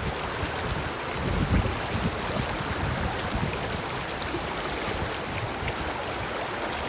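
Steady rushing of a valley stream, with gusty wind buffeting the microphone as an uneven low rumble.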